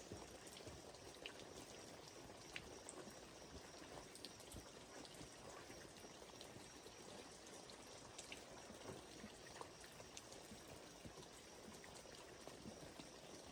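Near silence: a faint, even hiss with scattered small ticks.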